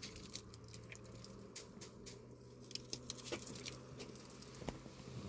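Faint, irregular light clicks and rustles over a low steady hum.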